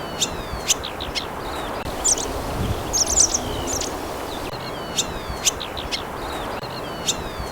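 Welcome swallows (warou) twittering: quick, sharp high chirps and short falling sweeps, repeated again and again over a steady background hiss.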